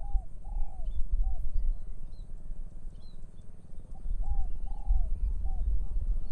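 A bird calls twice in phrases of three mellow, arching notes, one phrase at the start and one about four seconds in. Small birds chirp faintly and high, over a low rumble of wind on the microphone.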